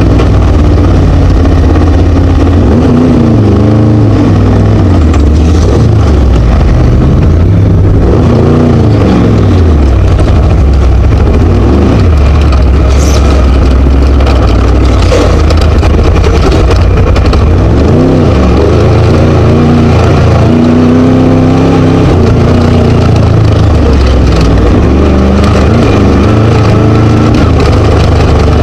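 Class 1 desert race buggy's Scat V4 engine running hard and very loud, its pitch climbing and falling again and again as it accelerates, shifts and lifts over rough ground, with a few knocks from the chassis about halfway through.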